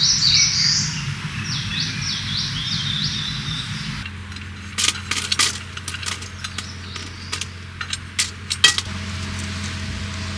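A songbird singing a quick run of repeated high, down-slurred notes for the first few seconds. Then, after an abrupt change in background, a scattered string of sharp clicks and taps.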